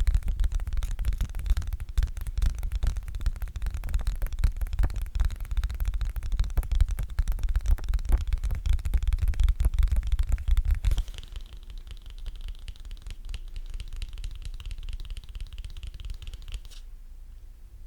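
Sticky, crackling peeling sounds made close to the microphone, with a heavy low rumble from handling. About two-thirds of the way through they drop to a softer crackle, which stops shortly before the end.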